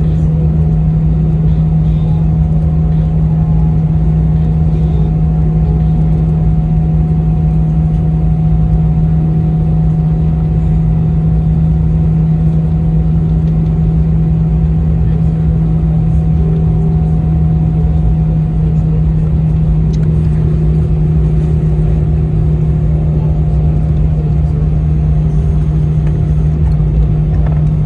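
Airbus A319 cabin noise inside the passenger cabin: the jet engines and airflow make a loud, steady drone with a strong low hum and a fainter higher tone, holding level without any rise or fall.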